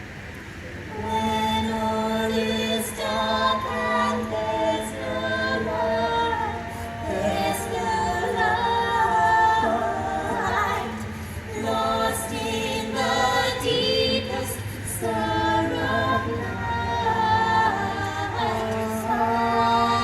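Small a cappella choir of mixed voices singing in close harmony, starting about a second in.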